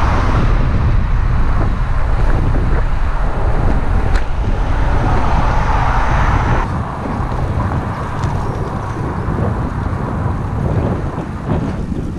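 Strong wind buffeting a GoPro's microphone, a loud, ragged rumble that eases a little partway through.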